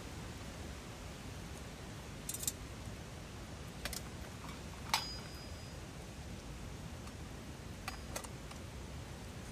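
A few sharp, scattered clicks and ticks, about half a dozen, over a steady low background rumble.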